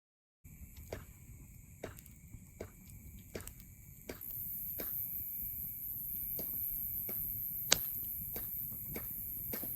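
Wood fire burning in a Bushbox XL titanium fire stand, crackling with sharp snaps about once a second and one louder pop near the end. A steady high hiss runs behind it and gets louder about four seconds in.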